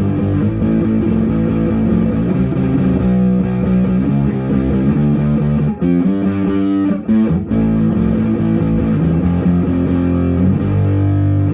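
Electric guitar played through an amplifier, chords ringing steadily with two short breaks about six and seven seconds in, cutting off at the very end. Its sound is coming through again now that the broken wire on the input jack has been resoldered.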